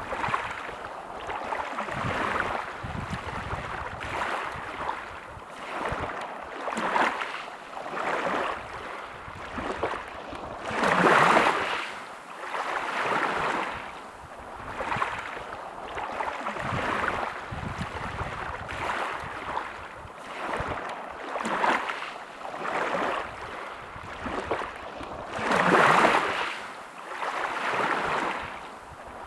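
Sea waves breaking and washing up a beach, the surf rising and falling every couple of seconds, with two bigger waves about eleven seconds in and near the end.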